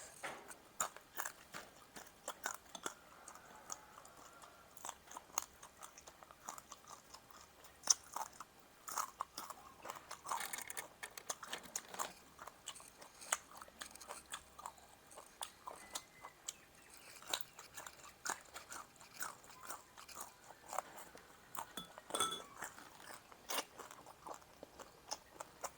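Close-miked crunching and chewing of small frogs: an irregular string of crisp snaps and clicks as the bones and skin are bitten through and chewed.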